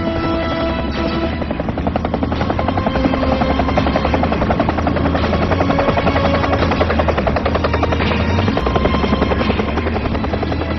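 Helicopter rotor chopping in a fast, even beat that grows stronger about two seconds in, over orchestral film score with long held notes.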